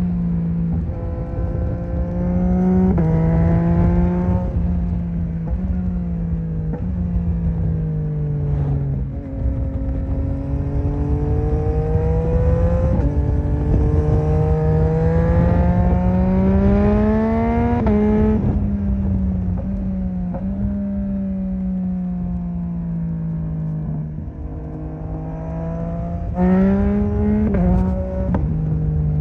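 Yamaha MT-09 (2021) inline three-cylinder engine riding along, its pitch rising under acceleration and falling away again several times, with sudden jumps in pitch at gear changes. A steady low rush sits underneath.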